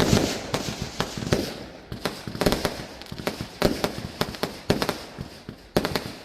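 Fireworks going off: a rapid, irregular string of sharp bangs, several a second, each trailing off in a brief rumble.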